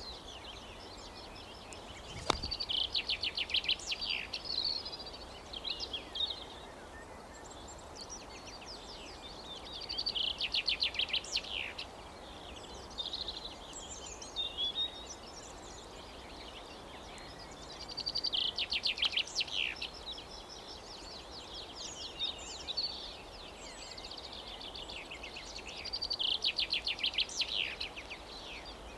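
A songbird singing trilled phrases of fast repeated notes, each two to three seconds long and coming back about every eight seconds, over a steady outdoor hiss. A single sharp click sounds about two seconds in.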